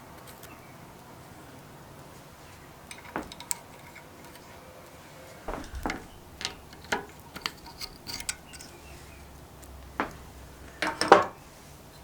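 Scattered clinks and taps of small metal carburetor parts and tools being handled and set down, with a louder cluster of knocks near the end.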